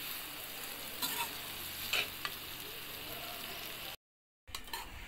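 Chana dal and bitter gourd sizzling in a metal wok while a metal spatula stirs it, scraping the pan now and then, in the last minutes of cooking. Near the end the sound cuts out for a moment, then a few light knocks follow.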